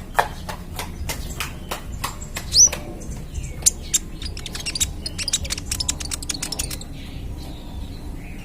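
Young kolibri ninja (a sunbird) singing in a fast stream of sharp, clipped notes. There is a loud rising whistle about two and a half seconds in, then a quick run of ticking notes near the middle, over a steady low hum.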